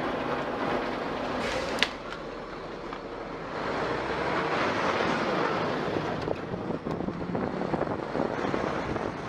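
Steady road vehicle noise, an even rushing hum of traffic and engine, with one sharp click about two seconds in.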